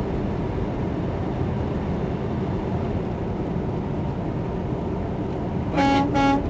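Steady engine and road noise of a vehicle driving, with two short horn beeps near the end.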